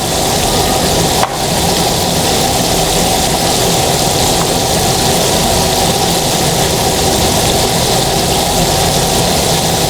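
Steady, loud sizzle of a flour-coated chicken breast deep-frying in hot oil, with one short knock about a second in.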